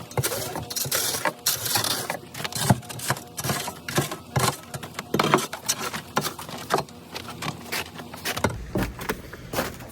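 Irregular scraping and crunching strokes of a tool clearing packed sleet and ice, many short noisy scrapes and knocks in quick succession.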